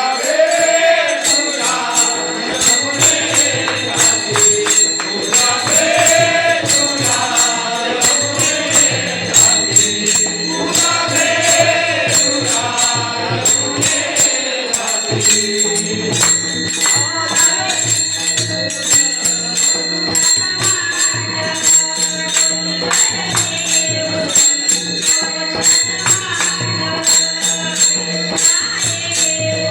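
Marathi devotional bhajan: a woman's singing voice over music for about the first half, then the accompaniment carries on alone with held steady notes, an even percussion beat and jingling, ringing metal percussion.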